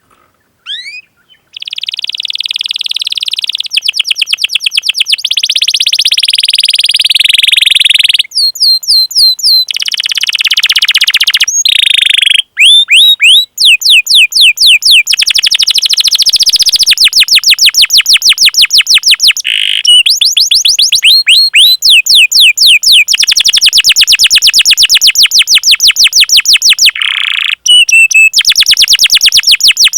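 Domestic canary singing, starting about a second and a half in: long rapid trills of repeated notes (rolls), broken now and then by short sweeping 'cuit cuit' chirps.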